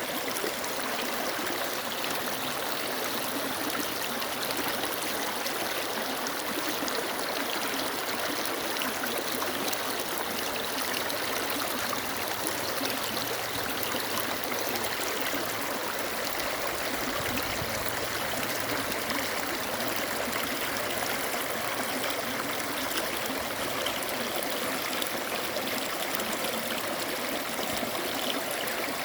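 Mountain stream flowing and splashing steadily over rocks.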